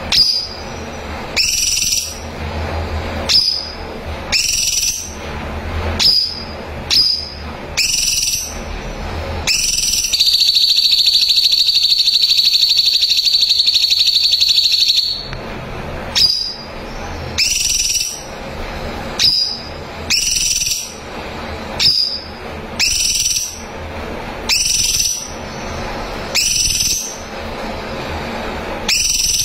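Cucak cungkok singing in full voice, short sharp high calls repeated about once a second, broken near the middle by one long fast trill that lasts about five seconds.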